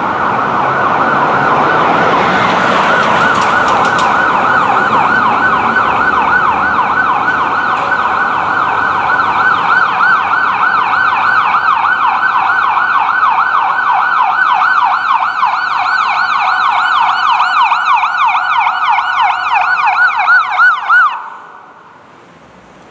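Emergency vehicle siren on a fast yelp, sweeping rapidly up and down about three times a second over traffic rumble, then cut off shortly before the end.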